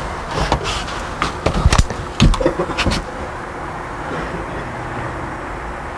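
A handful of knocks and clunks from work being done by hand, bunched in the first three seconds, then a steady background hum.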